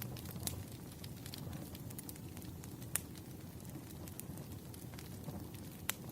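Burning firewood crackling: a steady low rumble of the fire under scattered sharp pops and snaps, the loudest about half a second in, near three seconds and near six seconds.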